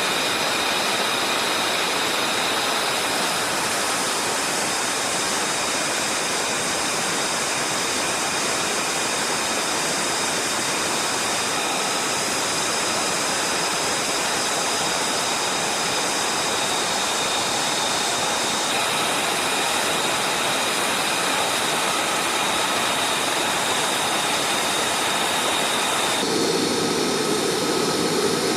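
F-35 Lightning II jet engine running, a loud steady rush with high whining tones over it. The sound shifts abruptly twice, and near the end it takes on more low rumble.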